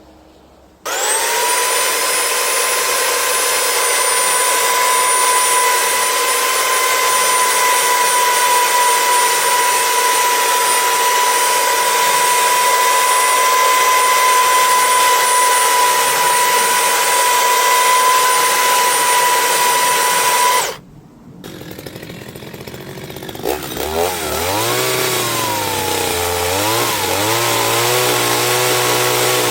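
Power tool running at one steady pitch, starting suddenly and cutting off abruptly about twenty seconds later. Soon after, a motor starts up again, its pitch wavering up and down for a few seconds before it settles into a steady run.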